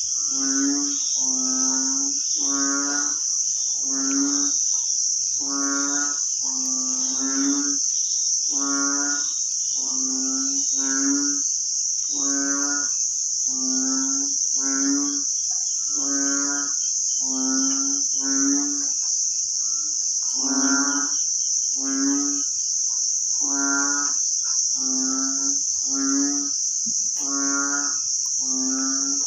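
Short, low, lowing animal calls repeating about once a second, with more than one caller overlapping, over a steady high-pitched insect drone.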